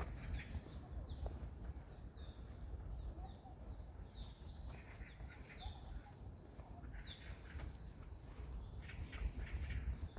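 Forest birds giving short, high chirps again and again, thicker in the second half, over a steady low rumble.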